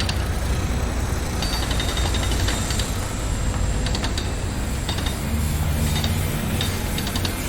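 Heavy construction machinery running with a steady low engine rumble, broken by several short bursts of rapid metallic rattling and clicking.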